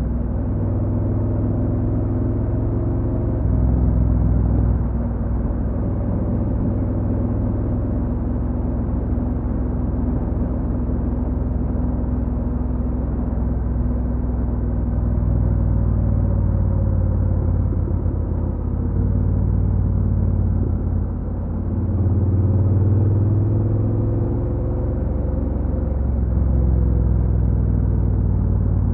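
Honda NC750X's parallel-twin engine running on the move, its low drone shifting in pitch and level several times as the revs change, over a steady rush of road noise.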